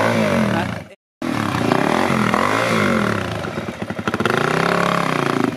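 Adventure motorcycle engine revving up and down repeatedly as the bike labours up a steep rocky trail climb. The sound cuts out completely for a moment about a second in, and the later revs come with a fast chatter of firing pulses.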